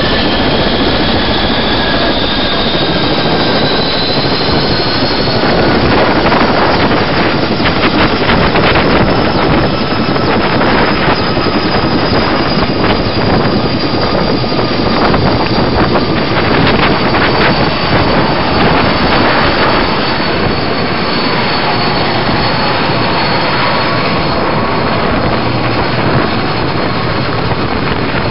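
Helicopter turbine engines and rotor running close by, loud and steady, with a high turbine whine that rises early on and then slowly sinks in pitch.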